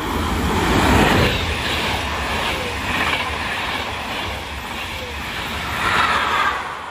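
An electric InterCity train passing through the station at speed without stopping, made up of a cab car, coaches and a locomotive at the rear. Its wheels run over the rails in a loud rush that peaks about a second in, carries on as the coaches go by, and swells again near the end as the rear locomotive passes.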